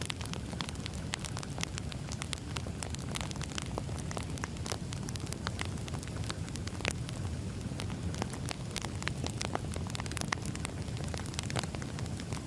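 Firewood burning, with a steady low rush of flame and many irregular sharp crackles and pops of the burning wood, a few of them louder, about seven and ten seconds in.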